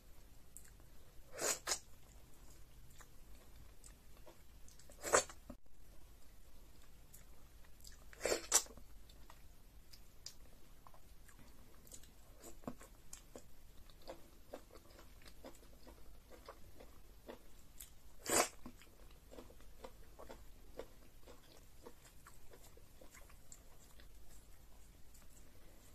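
Close-up wet chewing and mouth sounds of eating fufu and egusi soup by hand, with many small clicks and a few louder wet smacks, the loudest about five, eight and eighteen seconds in.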